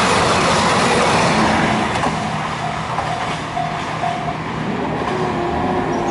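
Diesel train passing close by on the line. Its loud rushing noise eases off after about two seconds.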